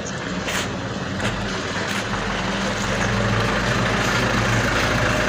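Truck engine running steadily, growing gradually louder, with a few faint clicks.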